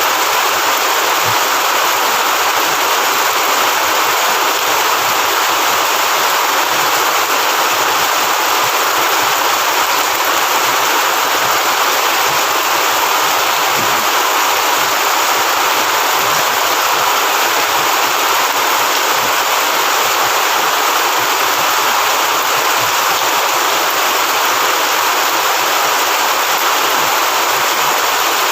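Heavy rain falling in a steady, dense downpour with no let-up.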